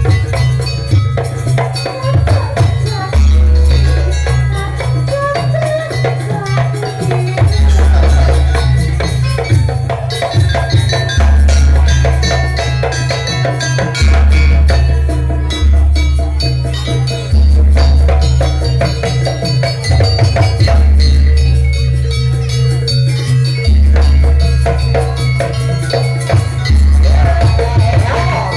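Jaranan dance music: a Javanese percussion ensemble with busy drums and rattling percussion over deep booming low notes that recur every two to three seconds, played loud.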